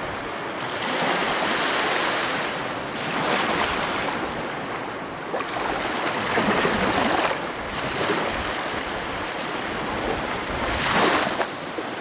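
Heavy ocean waves breaking on the coast in a steady wash of surf, surging every few seconds, the loudest crash near the end. Some wind noise on the microphone.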